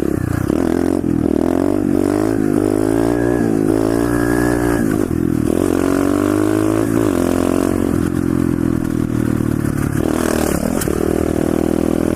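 125cc SSR pit bike's single-cylinder four-stroke engine revving while riding. Its pitch climbs and drops several times as the throttle opens and it goes through the gears.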